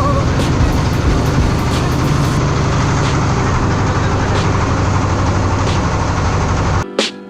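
A heavy engine running steadily with a strong low drone. Near the end it cuts off abruptly and piano music takes over.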